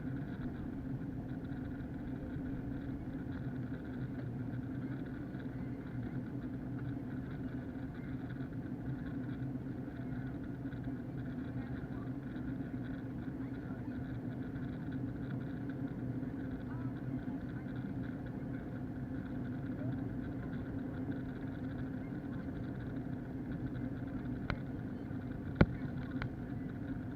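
Steady cabin drone of an Airbus A321 with IAE engines in flight, an unchanging low hum and rush of air. Two sharp clicks near the end.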